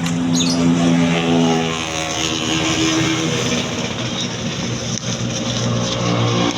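Yamaha Alfa two-stroke motorcycle engine running at high revs, easing off about two seconds in and settling to a lower, steady engine speed.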